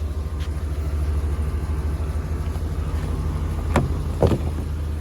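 Dump truck's engine idling with a steady low rumble, and two short knocks near the end.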